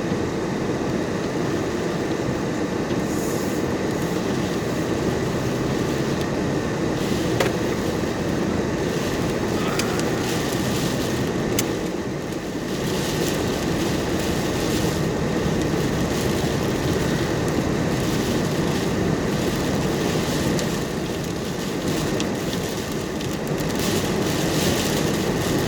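Vehicle heater fan blowing steadily on defrost inside the cab, a constant loud rush with a few faint clicks.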